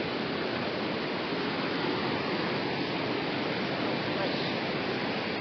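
Steady rush of falling and flowing water from a waterfall or stream, an even, unbroken hiss with no changes.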